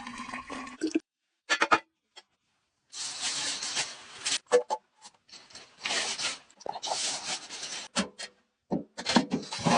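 Short bursts of rubbing and scraping, separated by abrupt cuts to silence.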